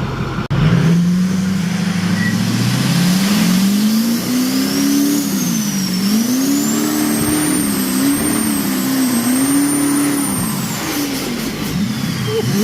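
Turbocharged diesel truck engine revving up and down repeatedly, with a high turbo whistle that rises and falls with the revs.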